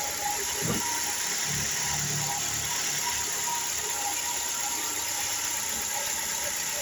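2010 Ford Focus engine idling steadily, with a faint high tone coming and going over it.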